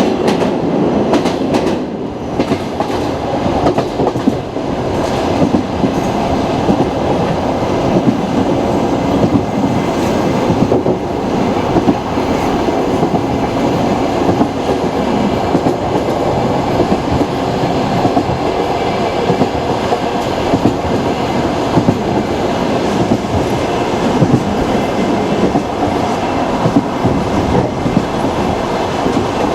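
Passenger train carriage rolling along the track, heard from inside the car: a steady rumble with the wheels clicking over rail joints, the clicks coming thickest in the first few seconds.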